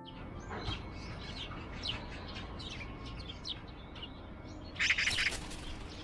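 Birds chirping in short, repeated calls over a low steady background hum. About five seconds in comes a brief, loud flurry of wing flaps.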